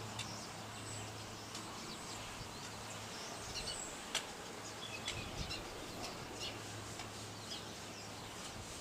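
Small birds chirping in short, scattered high notes over a steady outdoor background hiss and a faint low hum, with one sharp click about four seconds in.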